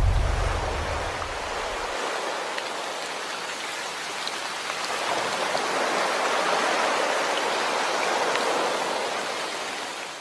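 Steady hiss of heavy rain, swelling and then easing, with a few faint drop ticks. A low musical drone fades out in the first two seconds.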